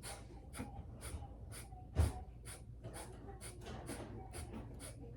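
Kapalabhati pulse breathing: short, forceful exhalations snapped out through the nose by pumping the belly back, about two a second in a steady rhythm. A low thump sounds about two seconds in.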